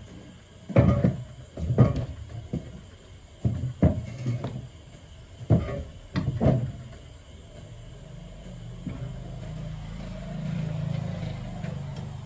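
A run of sharp knocks and clunks, then a steady low hum that starts about halfway through and swells a little near the end.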